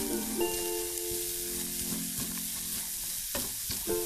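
Diced carrots and corned beef sizzling in oil in a frying pan while a spatula stirs and scrapes them around, over soft background music.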